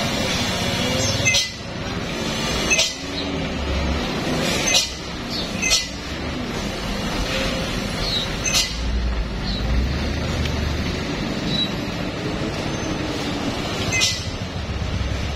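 Heavy truck engines running with a low rumble, broken by about six short, sharp hisses.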